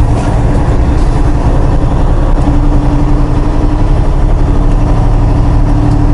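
Semi-truck diesel engine running, heard from inside the cab as a steady, loud low rumble with a constant hum.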